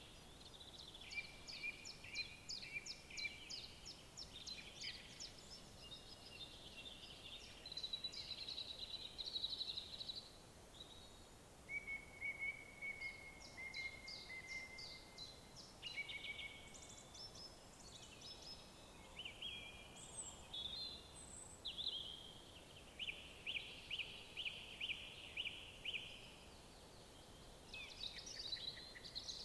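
Woodland songbirds singing in overlapping phrases: fast trills of rapidly repeated notes and higher whistled notes, with hardly a pause.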